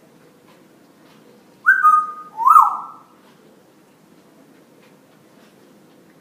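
Pet parrot whistling two notes about a second and a half in: a first note that steps down in pitch and holds, then a second that rises and levels off.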